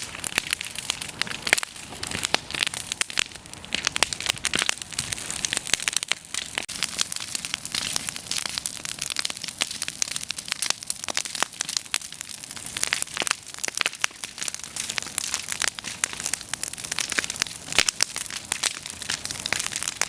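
Bonfire of old wooden fence boards burning, with dense, continuous crackling and snapping.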